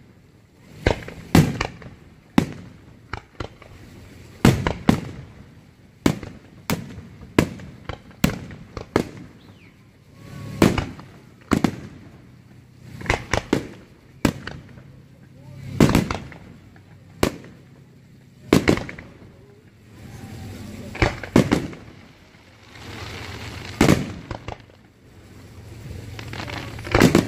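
Aerial firework shells bursting in a long series of sharp bangs, roughly one a second and sometimes two in quick succession, each trailing off as it echoes.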